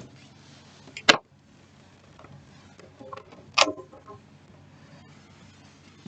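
Two sharp clicks about two and a half seconds apart, over a faint low steady hum.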